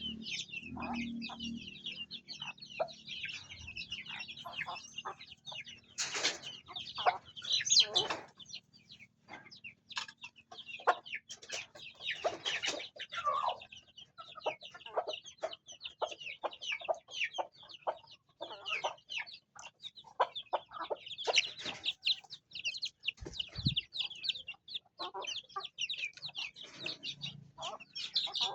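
Farm chickens with chicks: a constant stream of short, high chick peeps, with hens clucking and a few louder calls scattered through.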